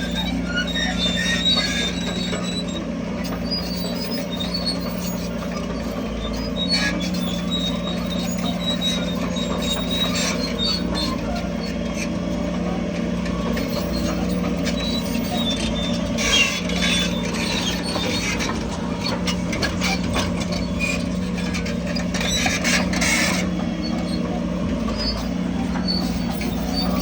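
Heavy diesel earthmoving machinery running steadily, with scattered metallic squeals and clanks, and bursts of rattling about sixteen seconds in and again around twenty-two seconds.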